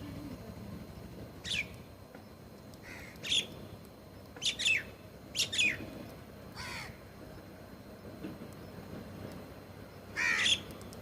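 Birds calling outdoors: a series of short, sharp calls that slide down in pitch, about eight in all, some coming in quick pairs, over a faint steady background hiss.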